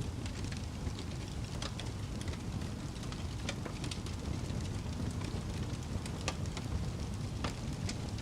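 Wood fire burning in a fireplace: a steady low rushing of the flames with frequent irregular crackles and pops from the burning logs.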